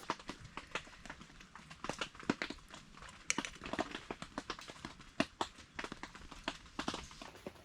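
A person eating stew: irregular small clicks and smacks of chewing and mouth sounds, a few every second.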